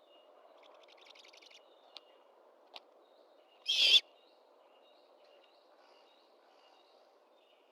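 A great horned owl gives one short, harsh, raspy screech a little before halfway, the loudest sound. Faint high chirps from small songbirds, with a quick trill near the start, run under a low steady background hiss.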